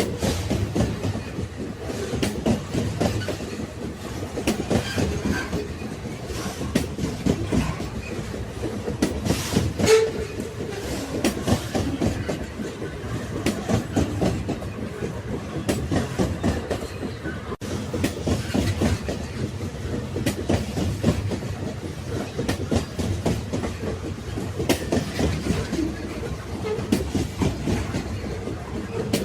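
Railway passenger cars rolling along the track, with a steady rumble and a rapid clickety-clack of the wheels over rail joints, and brief faint wheel squeals here and there.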